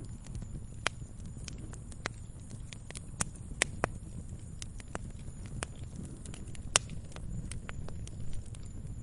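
Campfire of burning wood crackling, with irregular sharp pops and snaps over a low steady rumble of flame. The loudest pops come about a second in, a cluster around three and a half seconds, and one near seven seconds.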